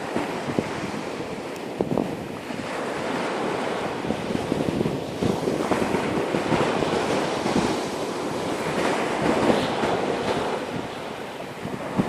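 Sea surf washing onto a shore in slow swells, with wind buffeting the microphone and a few short sharp pops.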